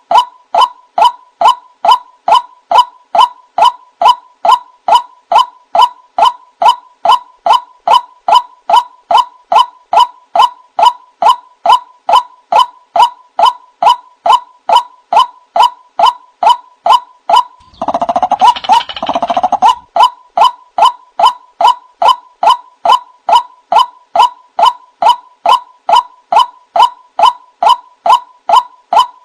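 White-breasted waterhen (ruak-ruak) giving its repeated territorial call: short, even, clipped notes at about two and a half a second, kept up without pause. About two-thirds of the way through, two louder, harsher, fuller calls briefly break the rhythm before the steady repeats resume.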